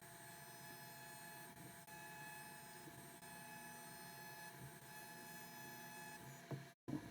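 CNC WE tattoo machine running with a faint, steady buzz while lines are tattooed. It drops out briefly near the end.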